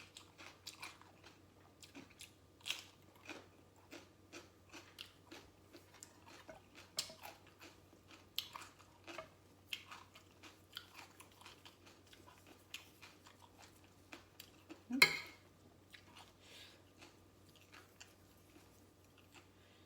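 Close-up chewing of crunchy green papaya salad and raw vegetables: a steady run of short wet crunches, with one sharp, louder bite about fifteen seconds in.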